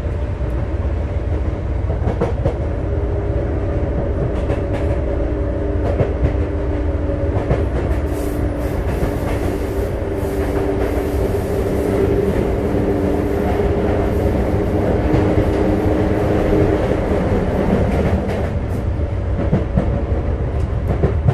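Running sound inside a Sotetsu 9000 series electric train car under way: a steady low rumble of wheels on rail with scattered clicks over the rail joints. Steady tones from the Hitachi IGBT-VVVF inverter drive and traction motors come in a few seconds in and fade out about three-quarters of the way through.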